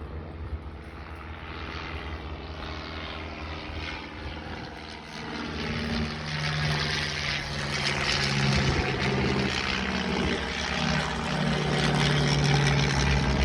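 Vintage single-engine propeller aircraft flying past, the piston engine's drone growing louder about halfway through and holding steady.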